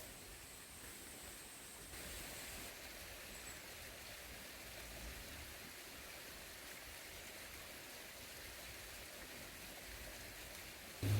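Faint, steady hiss of outdoor background noise, with no distinct events.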